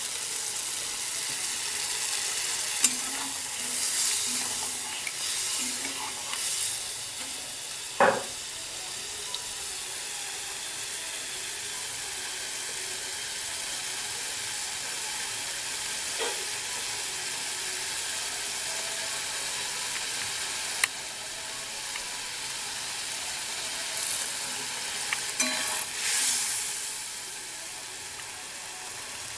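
Spice masala with water just added sizzling steadily in a hot kadhai, with a spatula stirring and scraping through it and a few sharp knocks of the spatula against the pan.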